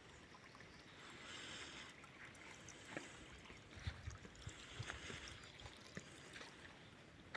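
Faint, steady trickle of water running from a spring fountain's spout, with scattered light clicks.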